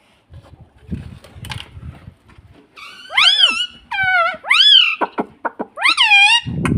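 A pet parrot calls loudly four times in the second half. Each call is high-pitched and rises and then falls in pitch. A low rumble follows near the end.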